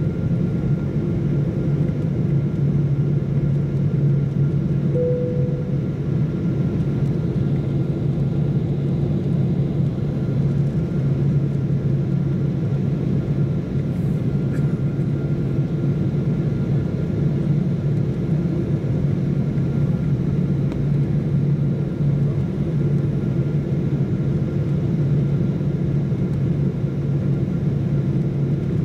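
Steady low rumble of an airliner's cabin during landing: jet engine and airflow noise with a constant low hum and a faint high whine. A short tone sounds once about five seconds in.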